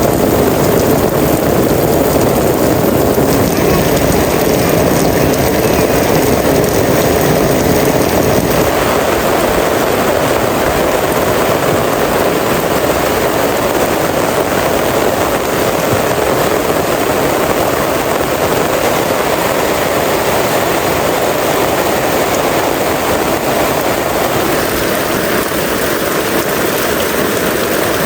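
Heavy rain falling: a loud, steady hiss that keeps up without a break.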